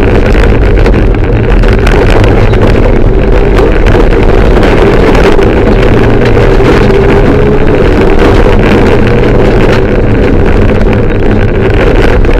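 Mitsubishi Lancer Evolution III rally car's turbocharged four-cylinder engine running hard under load, heard from inside the cabin. It is loud and continuous, with small rises and falls in pitch.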